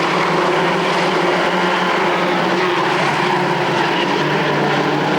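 A field of race trucks running together around a short oval track, a loud steady engine drone with several engine pitches heard at once.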